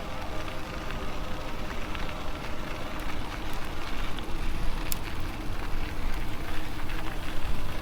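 Ride noise from an MS2 Dual Sport Ultra e-bike rolling along a trail: tyre noise with small crackles and clicks, over a low wind rumble on the bike-mounted microphone, with a faint steady whine underneath.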